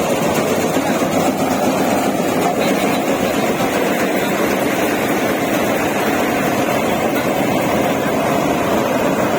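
Diesel engine of heavy farm machinery running steadily, a dense even noise with no breaks.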